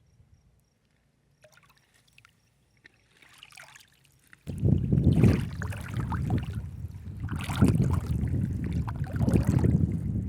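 Wind rumbling on the microphone over water sloshing, starting suddenly about four seconds in after near quiet with a few faint clicks.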